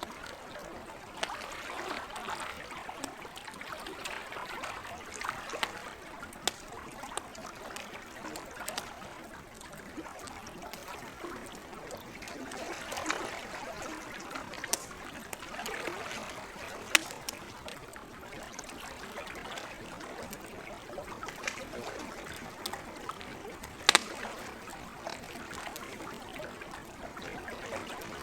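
Campfire crackling, with scattered sharp pops (the loudest about four seconds before the end), over gentle lake water.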